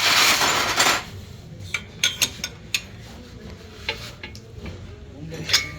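A loud burst of hissing noise for about the first second, then scattered sharp metallic clinks and taps of tools and metal parts being handled on the work of a front shock absorber repair.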